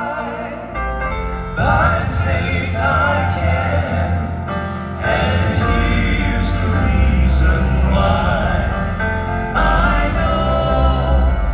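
Southern gospel male quartet singing in close harmony over band accompaniment. The voices come in strongly about a second and a half in.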